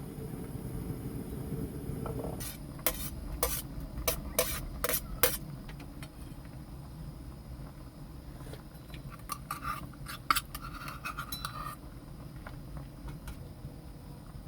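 Tableware being handled: a quick run of about eight sharp clinks a few seconds in, then scattered lighter ticks and a brief scrape. A low steady rumble underneath stops about two seconds in.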